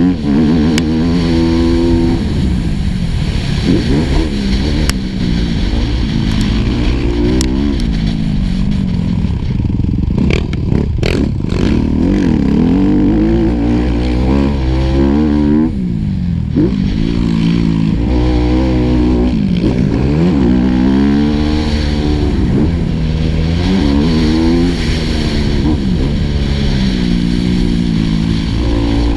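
Four-stroke motocross bike engine, recorded on board, revving up through the gears and dropping off again over and over, with wind on the microphone. A few sharp knocks come about ten to eleven seconds in.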